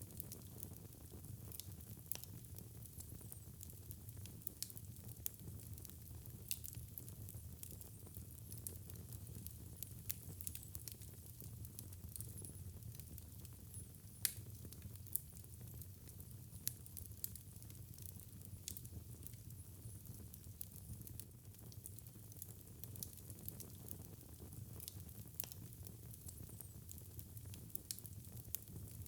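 Wood fire in a fireplace burning steadily with a low rumble and frequent irregular crackles and pops, one louder pop about midway.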